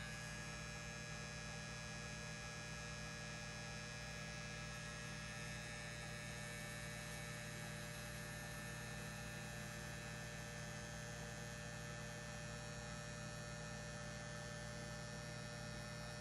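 Battery-powered tattoo machine running with a steady, unchanging hum as the first line of a tattoo is drawn.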